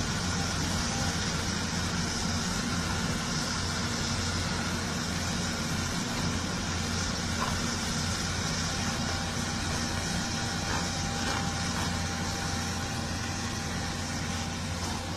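A heavy machine's engine running steadily at a constant speed, a low even hum.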